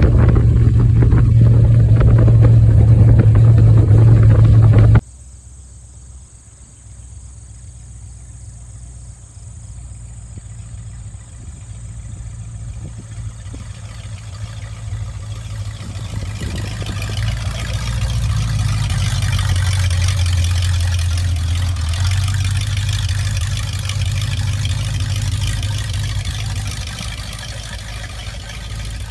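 V8 engine of a 1954 Corvette running under way. At first it is heard from the open cockpit, loud, with wind rushing over the microphone. After about five seconds it is heard from the roadside instead, faint at first, growing steadily louder as the car approaches and passes, then easing off near the end.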